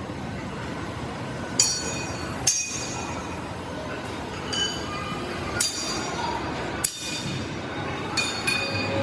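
Metal parts clanking against metal about seven times at irregular intervals, each hit ringing briefly, over a steady background noise.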